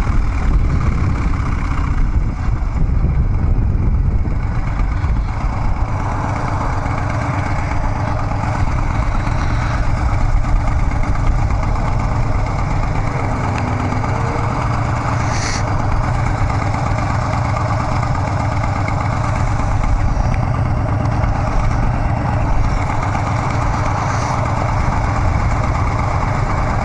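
Harley-Davidson Dyna Street Bob's V-twin running steadily through Vance & Hines Big Radius 2-into-2 exhaust pipes, with no sharp revs.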